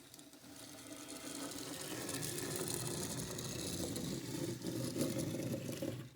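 Small plastic wheels of a model airliner's landing gear rolling across a tabletop, a steady fine rattle that grows louder after about a second and stops suddenly.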